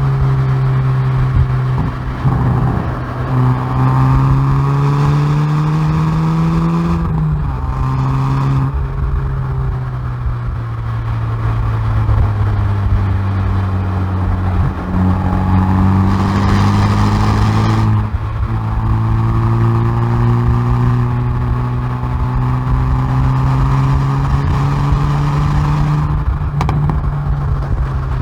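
Hyundai i30N Performance's turbocharged four-cylinder exhaust under hard acceleration on track, picked up at the rear bumper. Its pitch climbs and drops back at each upshift, easing off for a while in the middle before pulling up through the gears again.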